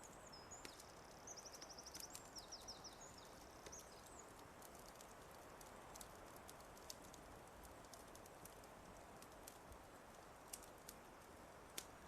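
A songbird sings a short phrase of rapid repeated high notes in the first few seconds, over a soft steady hiss with scattered sharp crackles from a wood fire.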